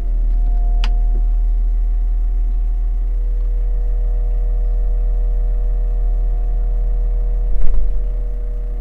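Caterpillar 930M wheel loader's diesel engine running at a steady speed, a strong low rumble with a steady hum above it. There is a sharp click about a second in and a knock near the end.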